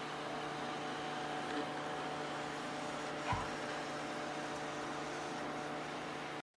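ILIFE V10 robot vacuum cleaner running with a steady motor hum, with a single light knock about three seconds in. The sound breaks off abruptly just before the end.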